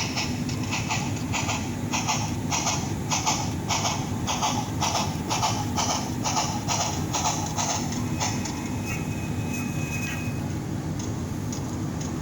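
Sound decoder of a Bachmann Spectrum EM1 HO-scale steam locomotive model playing steam chuffs through its small speaker as it runs in reverse, about two a second. The chuffing stops about eight seconds in, and a thin steady high tone follows for a couple of seconds.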